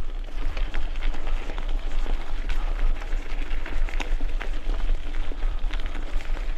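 Wind buffeting the microphone with a low rumble, over a steady crackle and scattered rattles and ticks of a bicycle rolling over rough ground.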